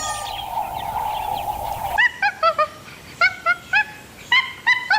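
A small dog yapping: short, high-pitched yaps in quick groups of two to four, starting suddenly about two seconds in after a steady hiss cuts off.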